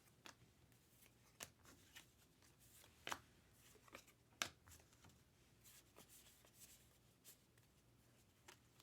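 Trading cards being handled and flipped through: faint, scattered clicks and soft slides of card stock, with a few sharper taps about three and four and a half seconds in.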